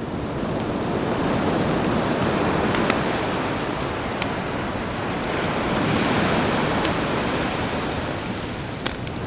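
Sea waves washing ashore, swelling twice, with a campfire crackling and popping over them in scattered sharp snaps.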